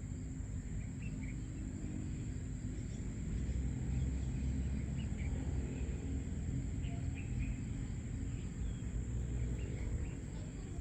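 Outdoor nature ambience: a steady high-pitched insect trill, with short bird chirps scattered throughout over a low rumble.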